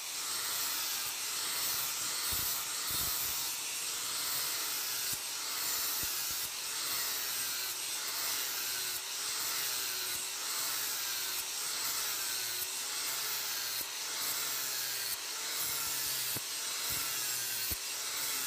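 Steel blade being abraded, ground or sanded: a steady, loud hiss that swells and wavers in pitch about once a second in a regular back-and-forth rhythm.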